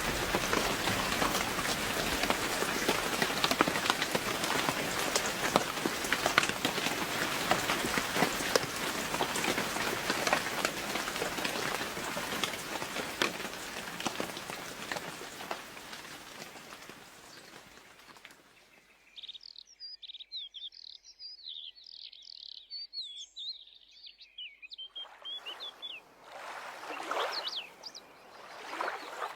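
Steady rain with many distinct drop taps, fading away about two-thirds of the way through. A small songbird then sings a rapid, high twittering song for several seconds, and a brief rushing swell of noise rises and falls near the end.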